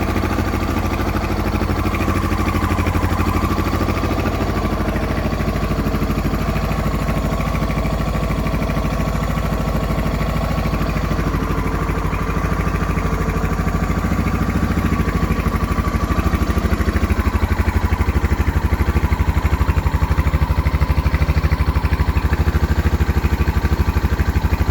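Suzuki XF650 Freewind's single-cylinder four-stroke engine running steadily through an aftermarket Dominator exhaust, at or near idle, with an even stream of exhaust pulses. It grows a little louder for the last third.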